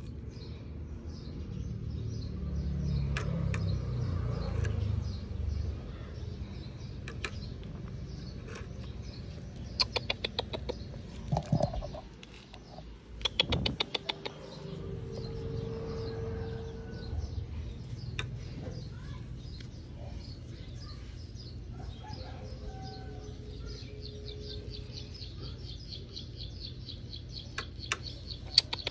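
Birds chirping in the background, with a few short, rapid trains of clicks.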